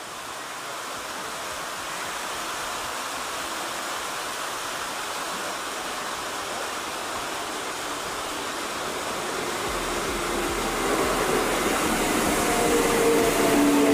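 An approaching train: a steady rushing noise that grows louder throughout, with a low hum coming in about ten seconds in and a few whining tones near the end.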